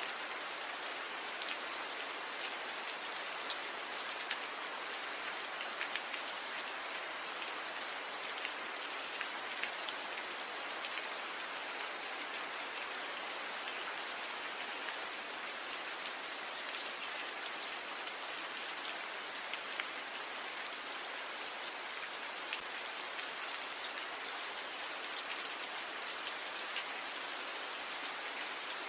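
Steady gentle rain falling on tree leaves: an even hiss with many single drops ticking through it, a few of them louder.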